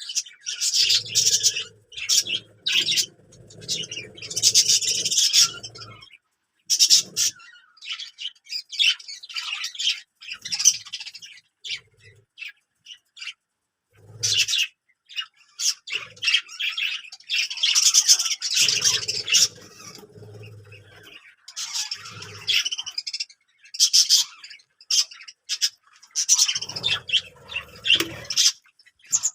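Budgerigars chirping and chattering in irregular bursts of high-pitched calls and squawks, with a low rumble underneath in a few stretches.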